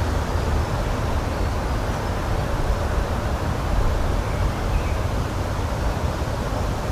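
Steady outdoor rushing noise with a deep rumble underneath, even throughout, typical of open-air nature ambience.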